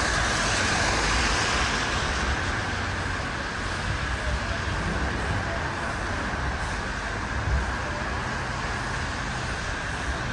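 City street traffic noise: a steady hiss of passing vehicles over a low rumble, a little louder at the start, with a faint steady high tone.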